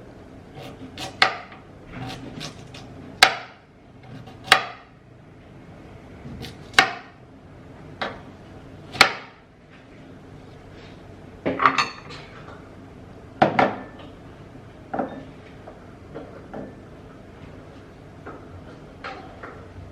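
Kitchen knife cutting beetroot on a cutting board: a sharp knock at irregular intervals of a second or two, about a dozen strokes.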